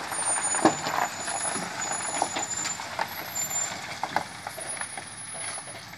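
Heavy truck working over rough ground, with a noisy running sound and many irregular knocks and clanks.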